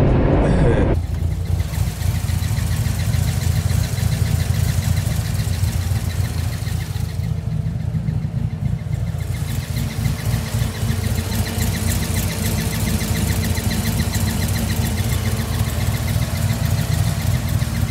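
Corvette's LS3 V8 running with a fast, even squeak from under the valve cover, repeating in time with the engine. The sign of a failed valve lifter roller.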